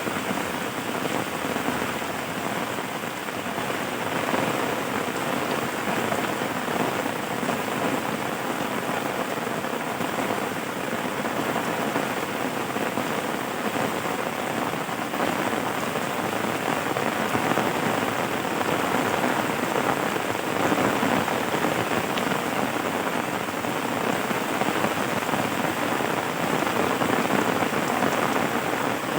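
Steady, dense rainfall, an even hiss of drops with no breaks or thunder.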